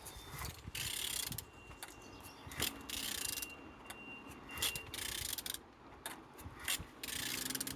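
Used Ford HXDA 1.6 TDCi diesel engine being turned over by hand with a wrench on the crankshaft, in repeated ratcheting strokes about once a second. It turns freely, a sign the engine is not seized.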